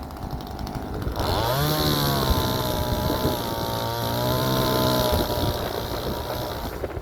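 Ozito 25.4cc top-handle two-stroke chainsaw running at idle, then revved up a little after a second in and held at high revs for about four seconds before dropping back to idle.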